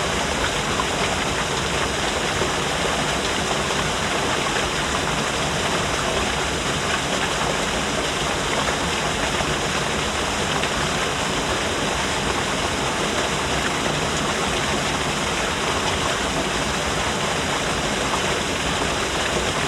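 Small artificial waterfall: water falling and splashing in a steady, even rush.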